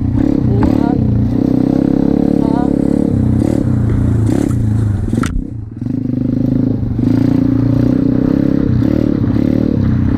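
M2R Racing 125cc four-stroke pit bike engine running as the bike is ridden, with clattering and scraping. There is a sharp knock about five seconds in; the engine sound dips briefly after it and then picks up again.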